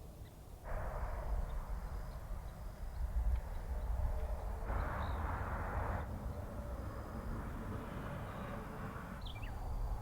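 Wind gusting across the microphone: a constant low rumble with rushing swells about a second in and again around the middle, plus a few brief bird chirps.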